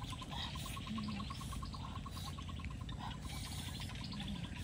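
Birds chirping in the open, with a fast, even run of pips that stops about halfway through, over a steady low rumble.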